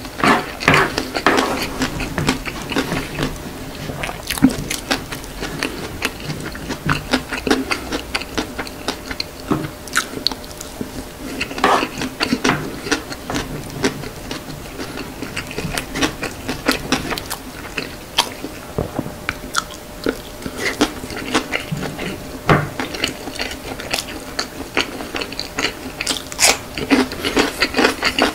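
Close-miked chewing and mouth sounds of a person eating chicken rice, with many irregular wet clicks and crackles. Now and then a wooden spoon scrapes and scoops on a ceramic plate.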